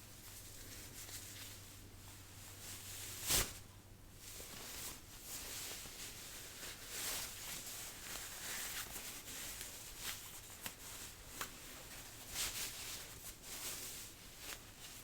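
Jacket fabric rustling and swishing as a sleeve is handled and rolled, in short strokes, with one sharp click about three seconds in.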